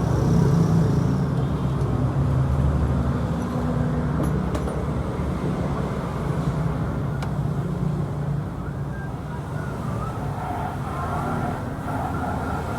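Yamaha Exciter 135 motorcycle engine running steadily at low revs, a constant low rumble.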